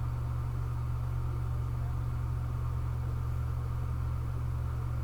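Steady low hum with a faint hiss behind it, unchanging throughout; background noise of the recording with no speech.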